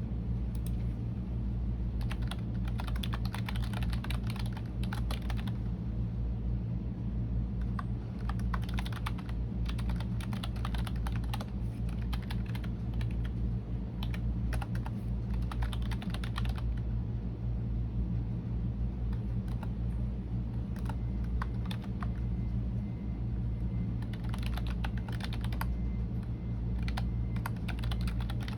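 Computer keyboard typing: runs of rapid key clicks with short pauses between them, over a steady low hum.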